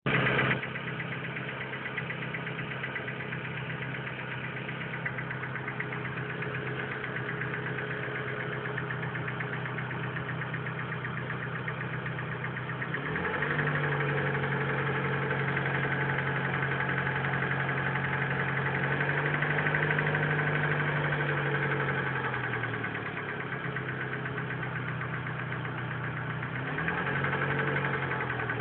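Car engine idling, revved up about thirteen seconds in and held at a higher steady speed for around nine seconds before dropping back to idle, then revved briefly once more near the end.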